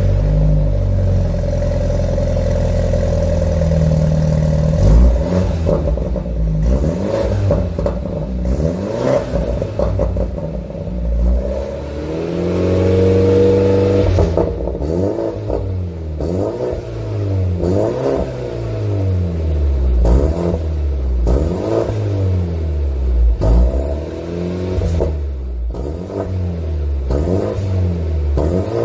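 BMW F32 420i's turbocharged four-cylinder engine heard through an aftermarket variable-valve exhaust, idling and then revved in place: one rev held for about two seconds near the middle, then a run of short throttle blips about once a second.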